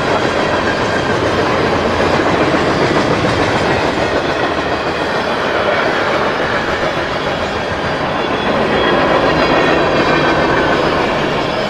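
A CSX freight train passing, its cars rolling by with a steady rumble and the clickety-clack of wheels over rail joints, swelling slightly near the end.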